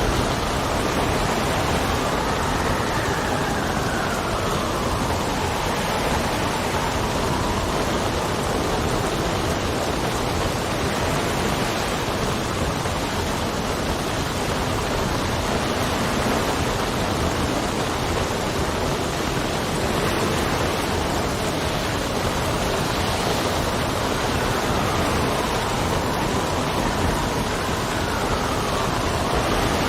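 Steady heavy rain with wind, and a howling wind tone that rises and falls in pitch in the first few seconds and again near the end.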